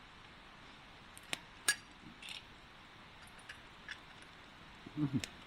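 A few light clinks of tableware, the loudest about a second and a half in with a short ring, and fainter small ticks after it. A brief voice sound comes near the end.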